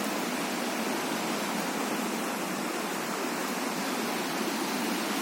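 Steady rush of running water from a turbulent mountain stream or waterfall, an even, unbroken hiss with no rhythm or separate strikes.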